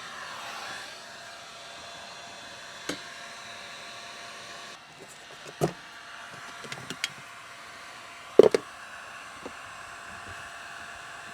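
Steady whirring of a small blower motor, with a few sharp knocks and clicks. The loudest knock comes about eight and a half seconds in.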